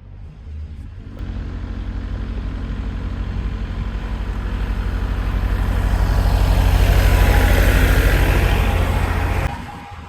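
Heavy equipment's engine running with a rapid, even pulse. It steps up about a second in, swells to its loudest toward the end, then drops away sharply.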